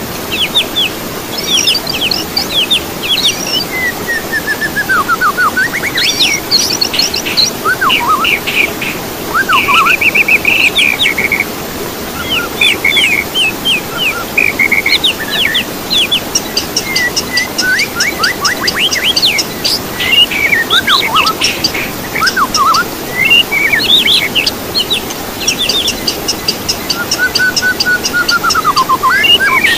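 Songbird song with barely a pause: a fast, varied run of whistles, rapid trills and rising and falling sweeps. It is a bird 'therapy' recording, played to caged songbirds to prompt them to sing.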